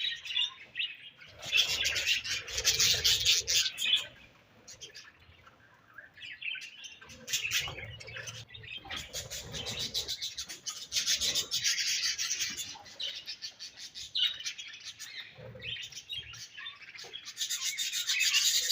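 Budgerigars chattering and chirping, mixed with scratchy rasping sounds, in bursts with a quiet pause about four seconds in.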